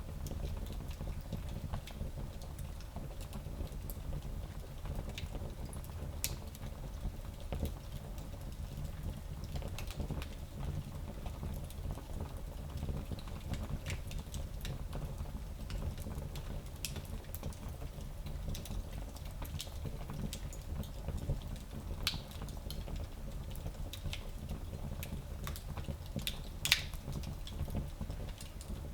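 Wood fire burning in a tiny fireplace: a steady low rumble of flames with scattered sharp crackles and pops, one louder pop near the end.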